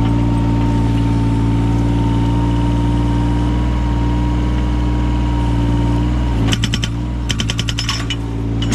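Yanmar 017 mini excavator's diesel engine running steadily. About two seconds before the end comes a rapid run of sharp cracks and clicks, as the axe attachment splits the firewood.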